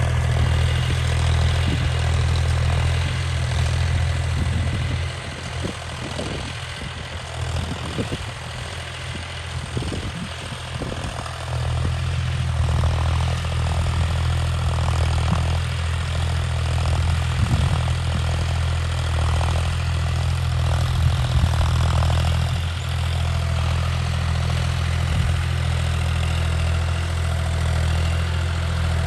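A tractor engine running steadily with a deep hum. It drops in level for several seconds about five seconds in, with scattered knocks, then returns to full strength.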